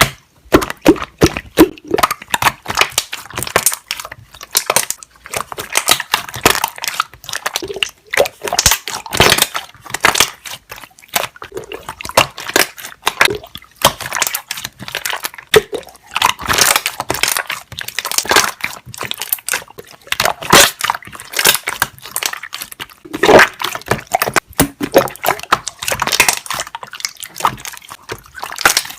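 Slime being squeezed and worked, its trapped air bubbles popping in dense, irregular wet clicks and crackles with a few short pauses.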